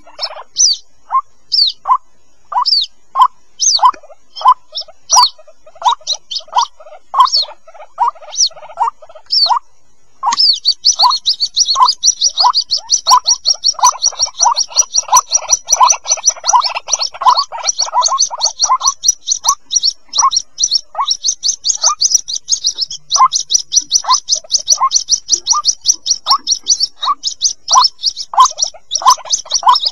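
Calls of white-breasted waterhen chicks: short down-slurred peeps repeated about twice a second. About ten seconds in, a fast high-pitched chittering trill joins and keeps going under the peeps.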